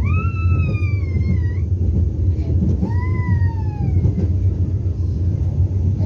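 Steady low rumble of the Vande Bharat Express train running, with two long high whining calls over it, one at the start and one about three seconds in, each rising and then slowly falling.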